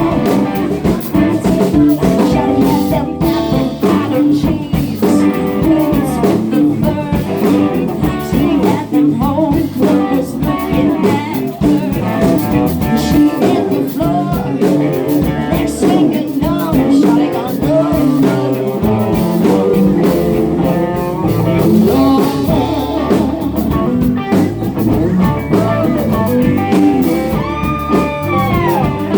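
Live blues-rock band jamming: electric guitars over bass and a drum kit, loud and steady, with sliding notes near the end.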